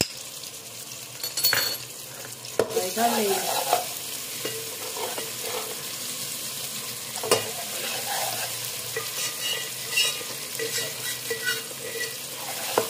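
Sliced onions and ginger-garlic paste sizzling in hot oil in a steel pot. A steel ladle stirs them, scraping and knocking against the pot every few seconds.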